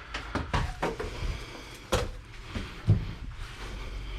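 Scattered knocks and clunks of computer scrap parts being handled and set down, the sharpest knock about two seconds in.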